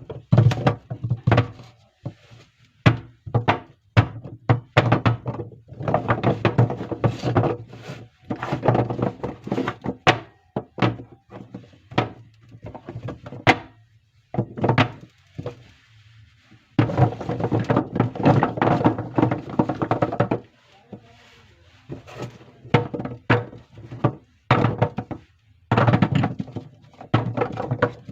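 Soap bars being unpacked by hand. The packaging crinkles and rustles in long stretches, broken by many sharp taps and thunks as the bars and their boxes are handled and set down.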